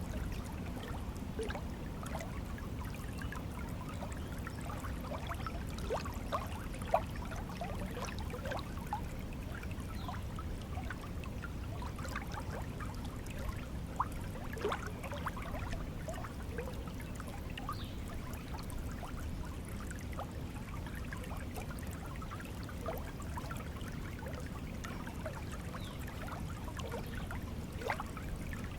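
Flowing water: a steady low rush with many small gurgles and splashes scattered through it, a couple of slightly sharper splashes.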